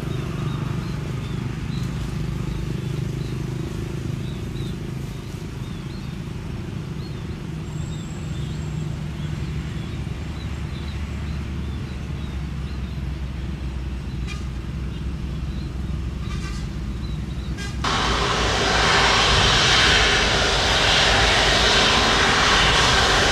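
Airliner jet engines running as a steady low rumble, with faint high chirps over it. About eighteen seconds in the jet noise jumps suddenly much louder and fuller.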